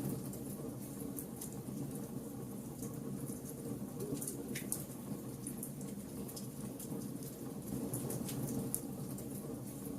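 Wood fire burning: a steady low rush of flame with frequent sharp crackles and pops from the burning wood, scattered irregularly throughout.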